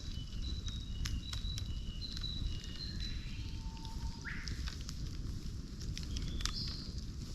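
Campfire burning: a steady low rumble of flames with scattered sharp crackles and pops. Short high chirping calls repeat in the background for the first few seconds, and a brief rising call sounds about four seconds in.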